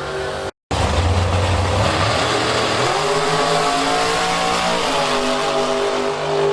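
Piston-engined drag racing car running hard, its pitch stepping up twice and then dropping back. A brief dropout to silence comes just after the start.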